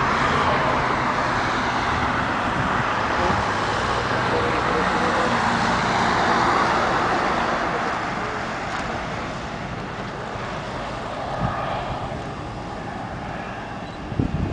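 Boeing 767-300ER's jet engines roaring during its departure, steady for about eight seconds and then slowly fading as the airliner pulls away. A brief knock near the end.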